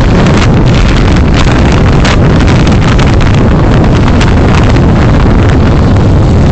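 Loud, steady wind buffeting on the microphone over the rumble of a moving vehicle, with brief surges of hiss every second or so.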